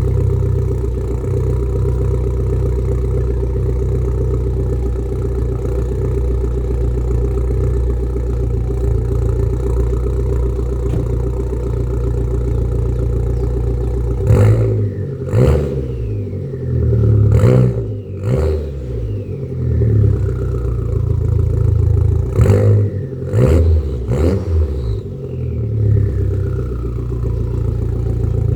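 Volkswagen Golf GTI engine idling steadily, then about halfway through given a series of short throttle blips, each rev rising and falling quickly, before it settles back to idle. The engine is still warming up after a cold start.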